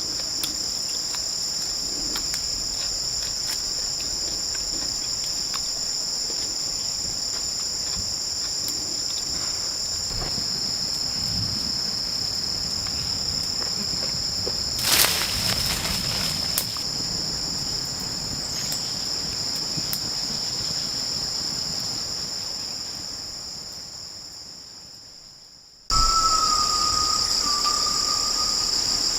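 Steady, high-pitched chorus of rainforest insects, a constant shrill drone, with a brief rustle about halfway. The chorus fades away shortly before the end, then cuts back in suddenly at full level.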